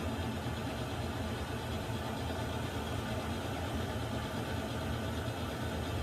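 Water heater running with a steady low rumble and hiss that does not change.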